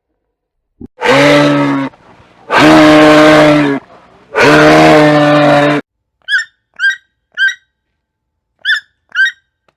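A cow mooing three times in long, loud calls, followed by five short, high chirps.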